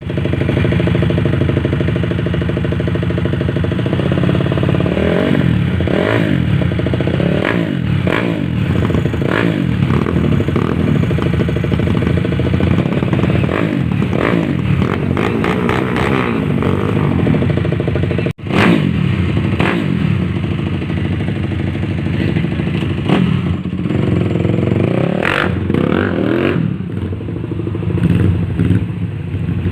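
Motorcycle with a Honda CRF250 single-cylinder four-stroke engine idling and being revved again and again in short blips, the pitch rising and falling with each one, as the engine is tuned. The sound cuts out for an instant about 18 seconds in.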